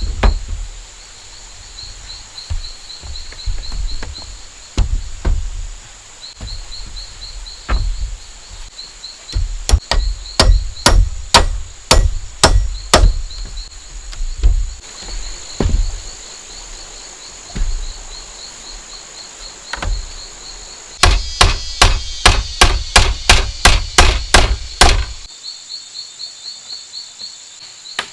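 Chopping strokes into bamboo with a blade: scattered blows, then a run of about two a second, and a faster run of about four a second near the end. Jungle insects keep up a steady high whine and a pulsing chirp underneath.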